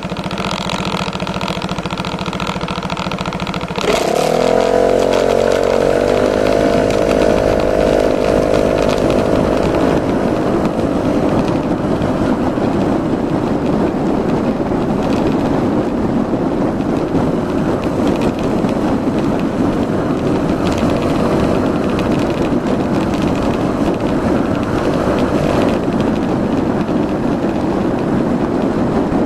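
Yamaha Majesty S 155 scooter's single-cylinder engine. A steady hum for about four seconds, then a sudden jump in loudness as the engine starts, and it settles into a steady idle.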